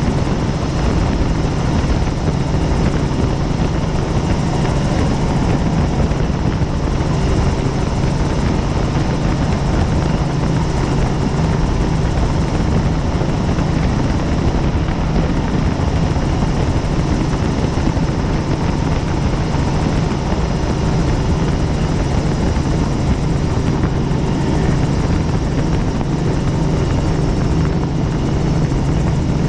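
Helicopter in flight: steady, loud rotor and engine noise that holds even throughout.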